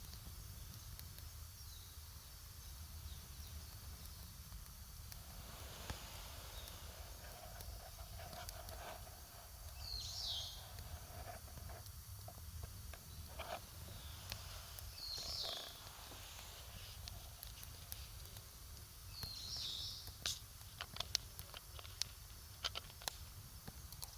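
Campfire wood crackling, with a cluster of sharp pops near the end. A bird gives three short high calls about five seconds apart over a low steady rumble.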